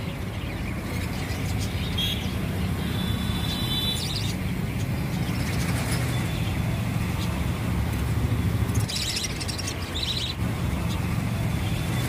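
Caged birds chirping briefly a couple of seconds in and again near the end, over a steady low rumble.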